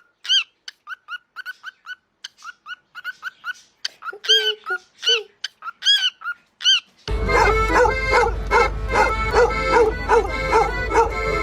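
A small dog yipping in short, high-pitched calls, a few a second. About seven seconds in, a louder, faster run of rhythmic yelping starts.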